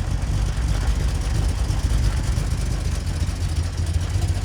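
Car engine running with a steady low rumble, as at idle or slow cruising.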